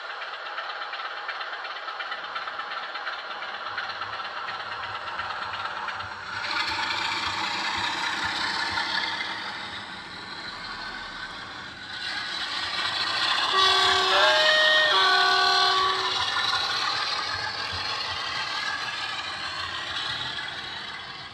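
Sound-fitted model Class 47 diesel locomotive's DCC sound: the diesel engine runs, growing louder about six seconds in and again around twelve seconds in, and the two-tone horn sounds a short sequence of notes about two-thirds of the way through.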